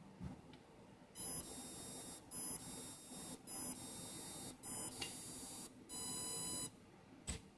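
A small motor being revved in five short bursts of about a second each, giving a steady high whine with short gaps between. The owner finds it revs strangely. A short click comes near the end.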